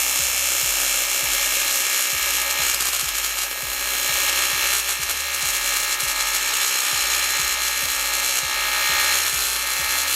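AC TIG welding arc running at about 200 amps on a cracked cast-aluminium Miata differential housing: a steady buzzing crackle that cuts off abruptly at the end.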